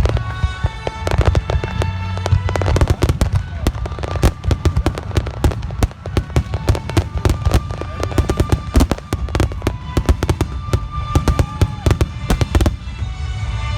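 Fireworks bursting in a rapid barrage of sharp bangs, with music playing along with the display. The bangs stop shortly before the end, leaving only the music.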